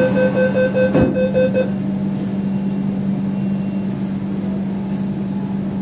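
Metro train running between stations, heard from inside the coach: a steady hum over a low rumble. A rapid beeping tone stops about a second and a half in, and there is a single knock about a second in.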